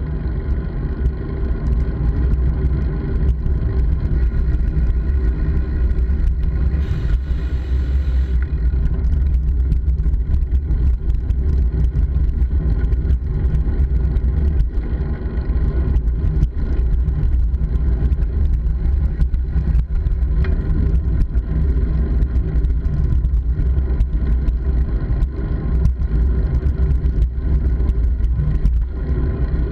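Steady low rumble of wind on the microphone and road noise from a moving bike, with a brief hiss about seven seconds in.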